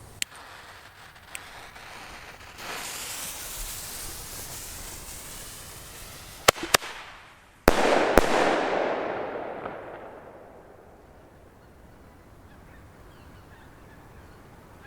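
Zena Trueno Shot thunderking firecracker: a few seconds of hissing, two small cracks, then a quite loud bang with a second bang about half a second later, followed by the fading hiss of its titanium burst.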